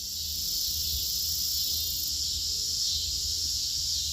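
Steady outdoor insect chorus, an even high-pitched buzz that holds throughout, over a low rumble.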